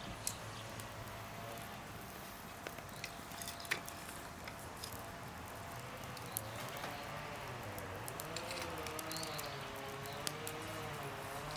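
Campfire crackling, with scattered sharp pops and snaps of burning wood. About halfway through, a faint wavering whine sets in.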